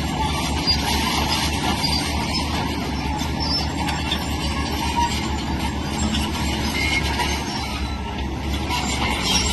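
Tracked earthmoving machine at work: a diesel engine runs under load with a steady low rumble, and the steel crawler tracks clank and rattle throughout.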